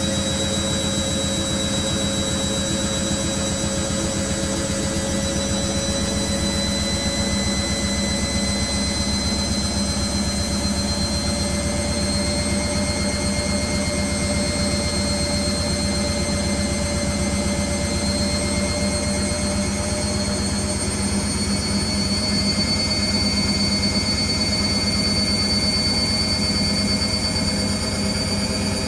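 Beko WTG620M1 washing machine spinning at speed: a continuous motor whine over the drum's hum, slowly rising in pitch as the spin speed creeps up.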